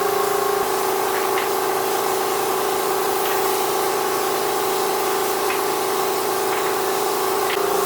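A machine running steadily with a constant hum over a noisy hiss, its tone shifting slightly about half a second in and again near the end, with a few faint ticks.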